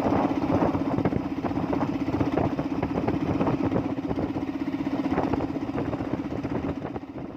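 An engine running steadily with a fast, even pulse, fading out near the end.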